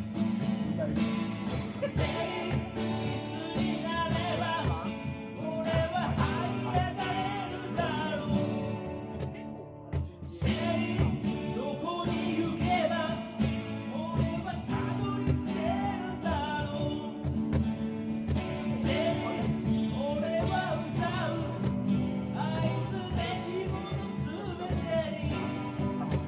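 Male voice singing a ballad over a strummed Yamaha FS-TA TransAcoustic guitar, with a cajon keeping the beat. The music dips briefly about ten seconds in.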